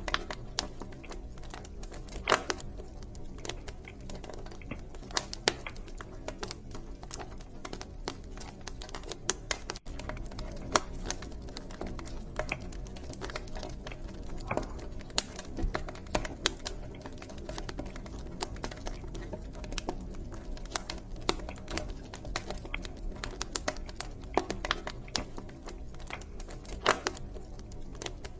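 Wood fire crackling in a fireplace: irregular sharp pops and snaps, several a second, over a low steady rumble of the flames. The sound drops out for an instant about ten seconds in.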